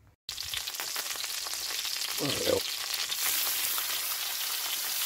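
Sausages and bacon frying in oil in a steel frying pan: a steady crackling sizzle that starts suddenly just after the beginning.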